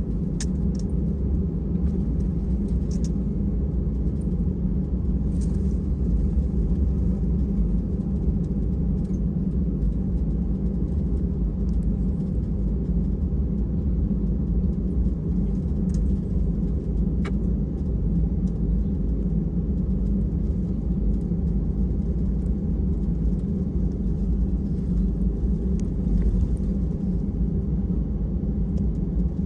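Steady low rumble of an Airbus A320's cabin after landing, with a few faint clicks.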